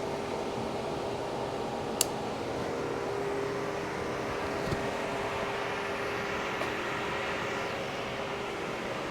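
Steady fan-like hum of ventilation or air conditioning with a faint constant tone, broken by one sharp click about two seconds in.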